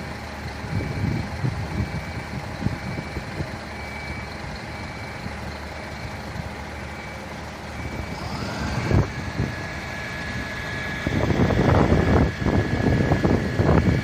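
A large vehicle's reversing beeper sounding in regular beeps over a running diesel engine. About two-thirds of the way through, a whine rises and then holds steady, and loud gusty noise follows near the end.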